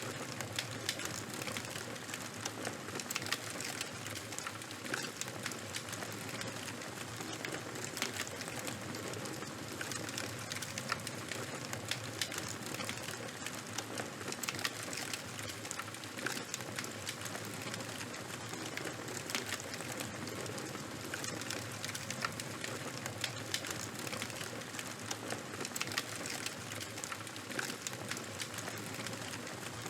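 Charcoal and wood fire crackling: many small irregular pops over a steady hiss.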